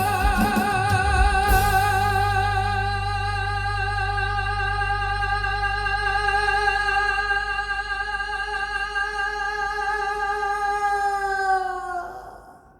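A singer holding one long note with vibrato for about twelve seconds over a sustained low accompaniment chord in a live musical-theatre song, dipping slightly in pitch just before it stops near the end.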